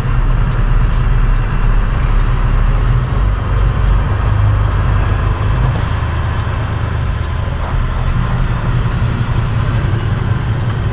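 A semi truck's diesel engine running steadily at low revs, a deep even hum.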